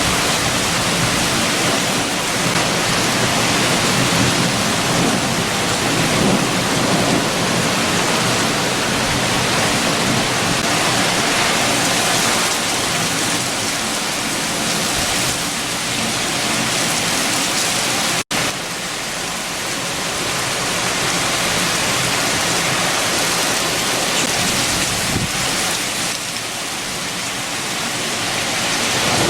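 Heavy rain with strong wind, a steady rushing hiss that swells and eases slowly. It cuts out for an instant about eighteen seconds in.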